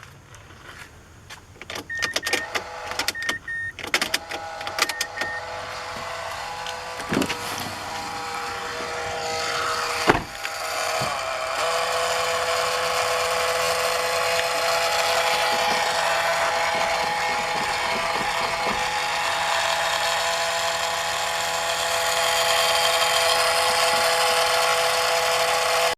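Clicks and a few pairs of short beeps, then from about ten seconds in a steady whir with a fixed whine. This fits a Mazda Biante's power-folding door-mirror motor that keeps spinning and will not stop, a fault that sets in when the engine is started.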